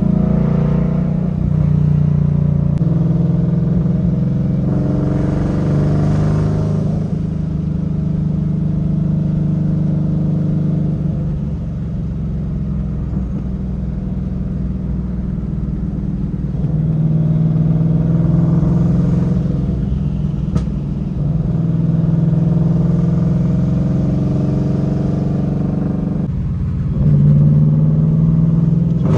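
Twin-turbo 2020 Shelby GT500's V8 engine driving through town, its pitch rising in several pulls as the car accelerates and dropping back between them.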